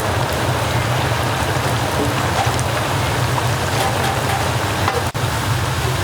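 Fried dumplings deep-frying in a cauldron of oil: a steady, dense sizzle with scattered crackles over a low hum, briefly cut off about five seconds in.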